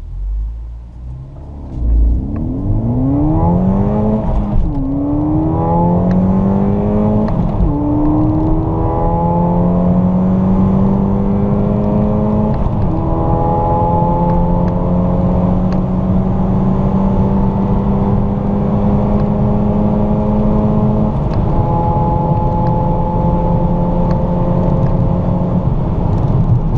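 2016 Ford Fiesta ST200's turbocharged 1.6-litre four-cylinder engine under full-throttle acceleration from a standstill, heard from inside the cabin. The engine note climbs, drops at each upshift about 5, 8, 13 and 21 seconds in, and climbs more slowly in each higher gear.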